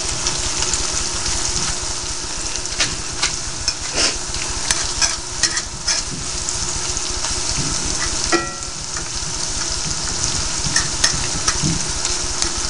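Sliced onions, jalapeño peppers and garlic sizzling steadily in hot canola oil, nearly done, with scattered sharp clicks from a utensil stirring them and one brief ringing scrape a little past the middle.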